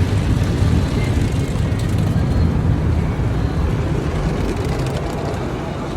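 Automatic car wash running over the car, a steady rushing and low rumbling noise heard from inside the cabin.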